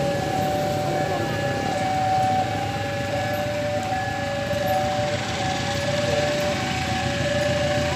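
Railway level-crossing warning alarm sounding steadily in two alternating tones, over the low rumble of a diesel locomotive engine running.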